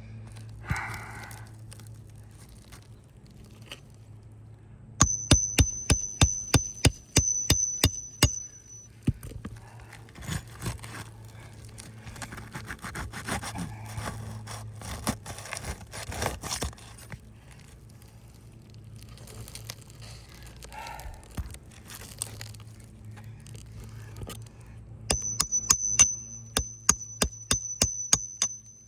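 Quick hammer taps on a metal roofing pry tool, each strike ringing, in two runs of about a dozen taps a few seconds long. Between them comes scraping and crackling as asphalt shingles are worked loose and their seal strips are broken.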